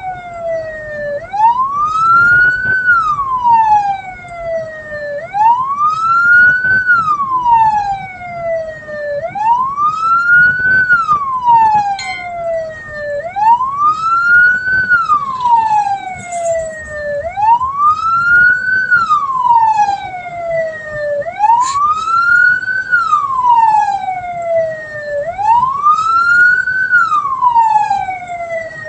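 Escort vehicle's siren wailing: the pitch climbs quickly, then slides slowly back down, repeating about every four seconds.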